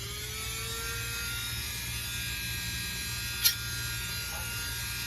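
Dremel rotary tool, used to sharpen a chainsaw chain, spinning with a steady high whine. Just as grinding against the chain stops, its pitch rises a little as the motor picks up speed, and a single sharp click comes about three and a half seconds in.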